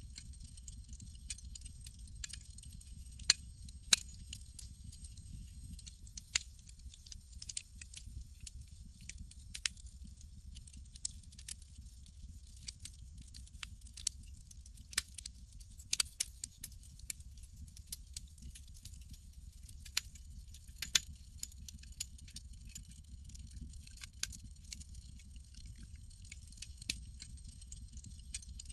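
Campfire burning with irregular sharp crackles and pops over a steady low rumble and a soft high hiss.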